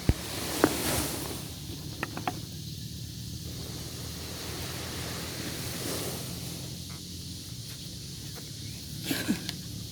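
Steady outdoor hiss of wind and sea, with a few short clicks and knocks.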